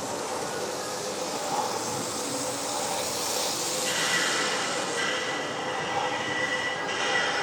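H0-scale model train running on the layout's track, with a steady high squeal setting in about four seconds in.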